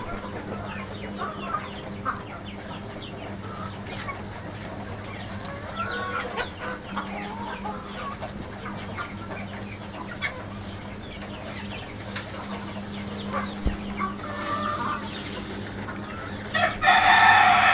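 Domestic chickens clucking in many short calls. Near the end a rooster crows loudly, the loudest sound here.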